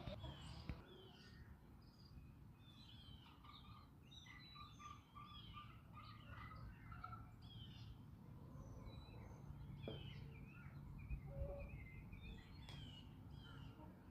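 Small wild birds chirping and singing, many quick overlapping calls, faint over a low background rumble.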